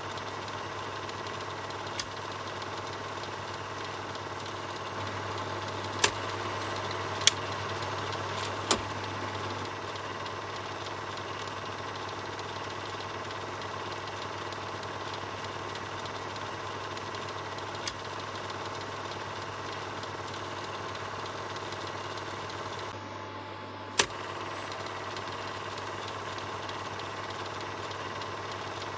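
Film projector running: a steady mechanical whirr with a rapid clatter of the film transport over a low hum. Several sharp clicks break through it, the loudest about six seconds in and again near the end.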